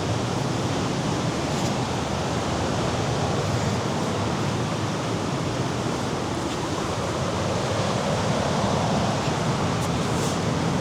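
Mediterranean sea surf washing steadily against the rocky shore below the cliffs, mixed with wind, swelling slightly near the end.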